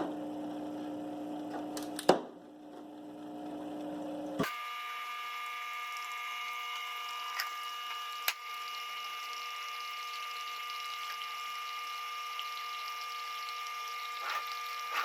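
Cuisinart SS-6 single-serve coffee maker running after its brew buttons are pressed, with a steady electrical hum and a sharp click about two seconds in. About four seconds in the sound changes abruptly to a steady, higher-pitched whine that holds, with a few faint ticks.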